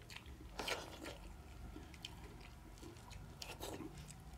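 Faint chewing and wet mouth sounds of people eating soft rice mixed with milk, with a few soft clicks.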